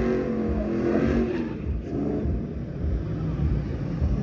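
Truck engine revving hard, its pitch easing down in the first second and then holding as a heavy, rough rumble.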